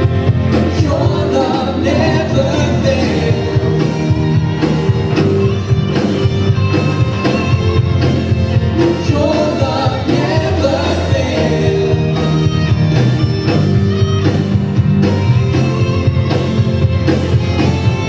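Contemporary worship song played live by a band with voices singing, over a steady drum beat.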